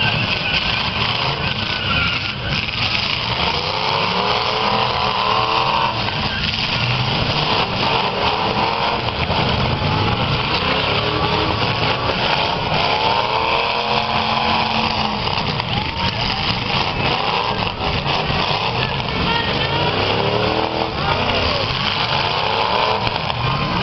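V8 engines of several demolition-derby cars revving up and down repeatedly, the pitch rising and falling every few seconds, over a steady din.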